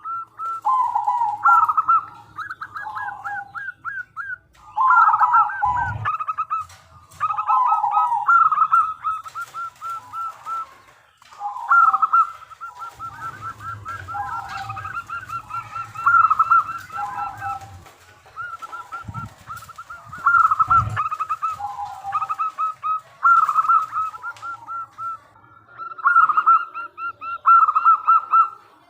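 Zebra dove cooing: phrases of rapid, staccato trilled notes, repeated every few seconds. A few short low thumps fall between the phrases.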